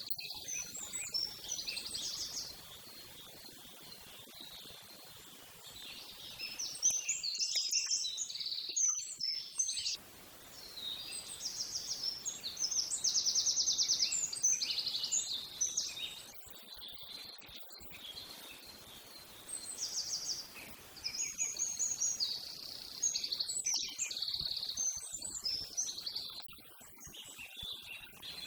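Small birds singing, in repeated bouts of high chirps and fast trills with short pauses between.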